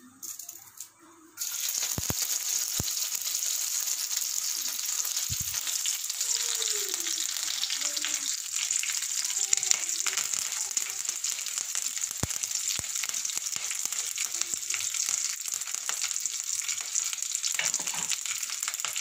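Curry leaves hitting a spoonful of hot coconut oil, bursting into a sudden loud sizzle just over a second in. They then keep frying with a steady hiss, with a few light taps here and there.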